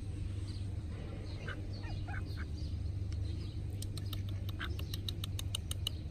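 Birds calling in short chirps and calls. About halfway through, a quick even run of sharp clicks starts, roughly five a second. A steady low rumble runs underneath.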